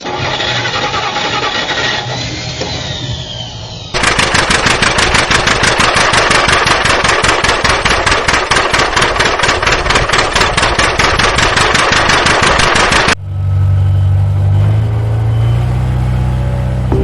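Engine sounds: a vehicle engine, then from about four seconds in a fast, even chugging that stops abruptly about thirteen seconds in, followed by low droning tones.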